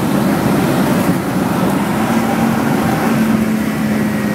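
Ford Sierra DOHC engine and exhaust without a silencer, heard from inside the cabin while driving: a steady drone whose pitch rises slightly about two seconds in and then holds.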